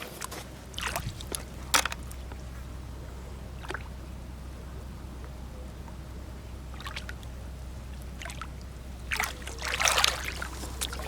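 Scattered short splashes and scrapes from wading and digging on a wet tidal flat, over a steady low rumble. The noises are busiest near the end.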